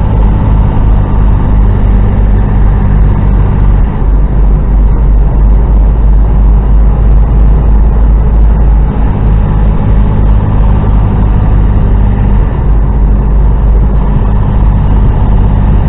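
HGV truck's diesel engine and road noise heard from inside the cab, a loud steady low rumble as the lorry drives along.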